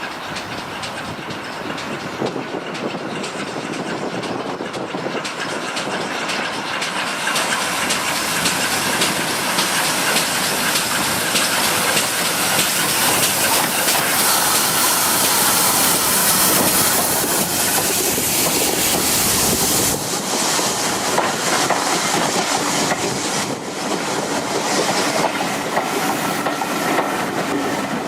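Steam train hauled by GWR 5600 class 0-6-2 tank locomotive 6695 running, with wheels clattering over rail joints and steam hissing. It grows louder through the first half, and the low rumble drops away about twenty seconds in.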